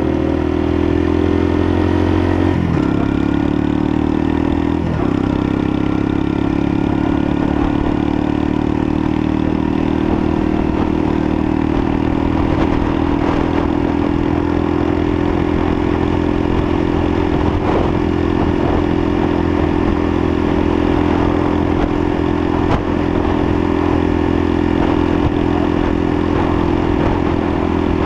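Lexmoto LSM 125 motorcycle's 125cc engine under way, its pitch rising through the first few seconds with two short breaks as it goes up the gears, then holding a steady note at cruising speed.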